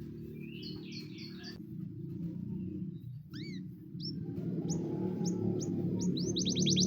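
Russian singer canary singing over a steady low hum. It gives a few scattered chirps and short sweeping notes, then near the end breaks into a fast rolling trill of repeated notes.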